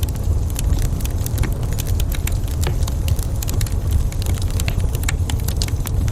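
Wood fire crackling in a fireplace, with many small sharp pops and snaps, several a second, over a steady low rumble.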